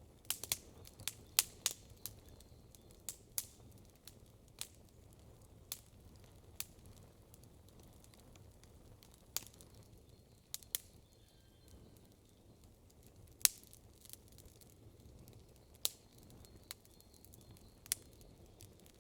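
Wood campfire crackling: irregular sharp pops and snaps, a quick cluster in the first two seconds, then single snaps every second or two over a faint low background rumble.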